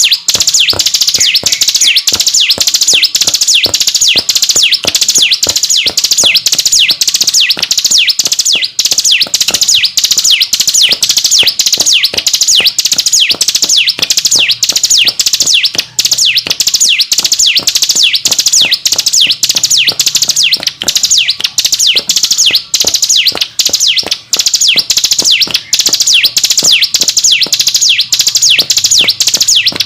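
Ciblek gunung singing a continuous rapid song ('ngebren'): fast, high, descending notes repeated about three to four times a second without a break.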